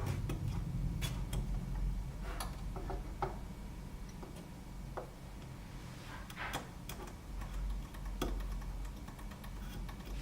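Scattered small clicks and taps, about a dozen at irregular spacing, from hand work on a circuit board at the bench, over a steady low hum.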